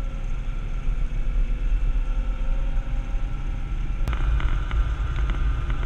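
A vehicle's steady low rumble while driving. About four seconds in there is a sharp click, then a few light ticks.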